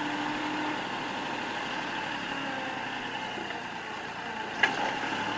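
Kubota L3560 tractor's diesel engine idling steadily, with a higher tone that fades out about a second in. A single sharp click comes near the end.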